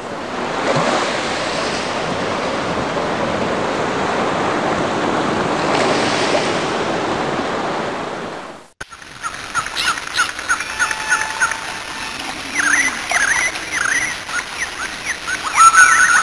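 A rushing-water sound effect, a steady surf-like wash that swells and falls, runs for most of the first nine seconds and then cuts off abruptly. Rapid high chirping calls, short quick rising and falling whistles, follow it.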